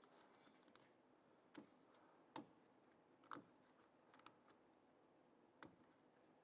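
Faint clicks and taps of a plastic door latch assembly being handled with a small screwdriver, a handful of sharp ticks spread through otherwise near-silent room tone.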